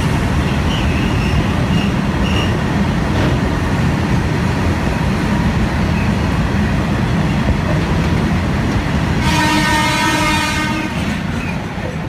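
Freight train of open-top wagons rolling past at speed with a steady loud rumble of wheels on rail. About nine seconds in, a train horn sounds once for about a second and a half. Near the end the rumble fades as the last wagon goes by.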